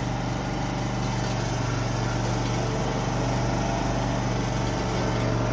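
An engine running steadily at an even speed, a constant low hum with no change in pitch or level.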